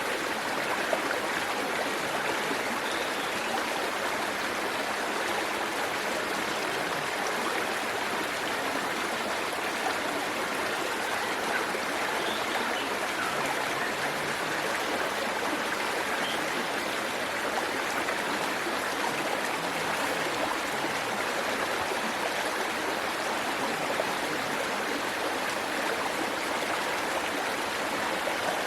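Waterfall and stream water rushing in a steady, even wash.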